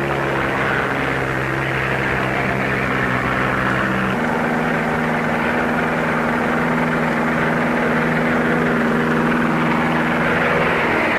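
Propeller aircraft engine droning steadily, with an abrupt upward shift in pitch about four seconds in.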